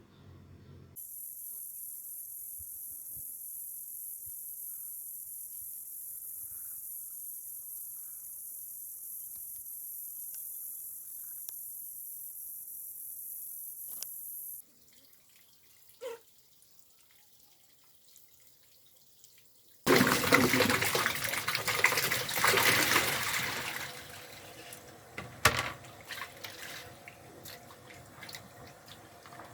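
A steady high hiss for about fourteen seconds, then after a short quiet gap, water pouring and splashing loudly for about four seconds before tailing off, with a few light knocks.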